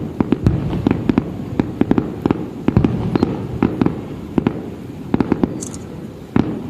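Aerial fireworks bursting in quick, irregular succession, about three sharp bangs a second over a continuous low rumble.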